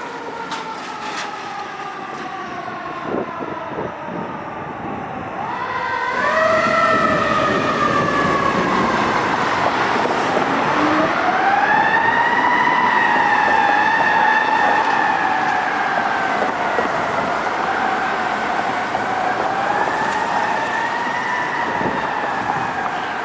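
Fire apparatus siren wailing: its pitch falls at first, winds up steeply about six seconds in, climbs again near ten seconds, then holds high with a slow waver, over the noise of the passing truck.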